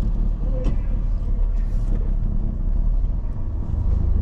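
Car moving slowly, a steady low rumble of engine and tyres, with a short click less than a second in.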